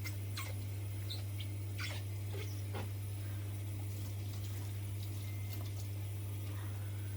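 Washing up at a kitchen sink: water sloshing, with scattered clinks and knocks of crockery and cutlery, over a steady low hum.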